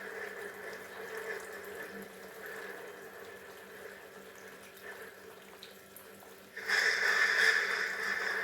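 Water trickling and splashing steadily in a paludarium waterfall. It eases off for a few seconds, then jumps suddenly louder about two-thirds of the way through.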